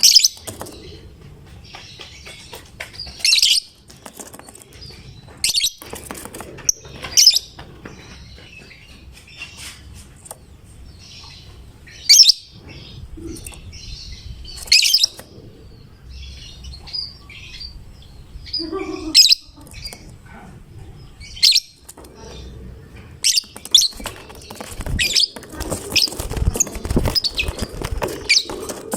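Lovebird giving shrill, sharp chirps every few seconds, then a quicker run of chirps over the last several seconds with rustling beneath.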